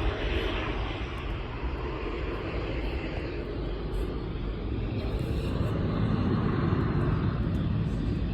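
Boeing 737-700's CFM56-7B turbofan engines running at takeoff power, a steady jet roar that swells slightly about six seconds in.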